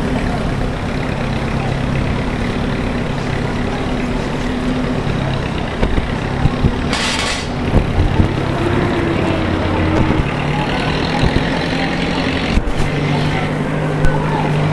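Downtown street traffic: a heavy vehicle's engine runs steadily under the general traffic noise. A short hiss comes about halfway through, and a sharp click near the end.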